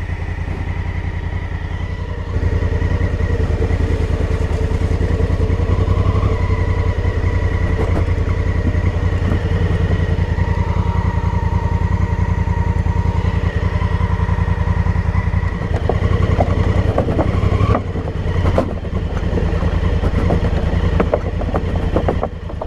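Honda Africa Twin's parallel-twin engine running steadily, stepping up louder about two seconds in. Scattered clicks and knocks in the last several seconds.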